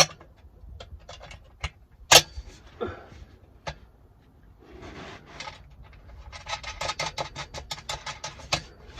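Metal clinks and scrapes as a bolt is fitted to an exhaust bracket by hand. There is a sharp clink about two seconds in, a few softer knocks, then a quick run of small clicks in the second half.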